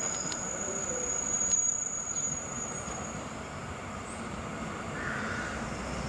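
WKD electric multiple unit rolling toward and along a station platform: a steady rumble of wheels on rail, with a thin high whine that fades out about two and a half seconds in.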